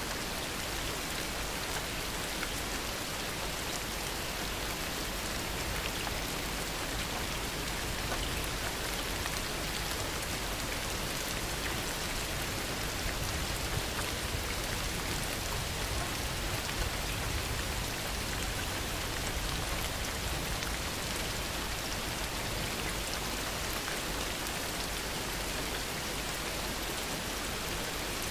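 Heavy rain falling steadily: a dense, even hiss with many single drop hits ticking through it.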